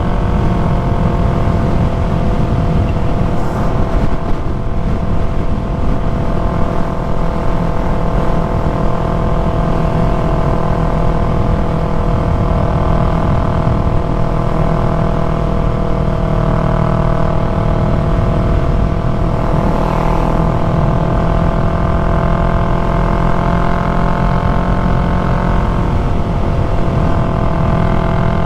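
2020 Yamaha MT-03's parallel-twin engine through an aftermarket full-system exhaust, cruising at a fairly steady engine speed. The pitch dips slightly and comes back up near the end.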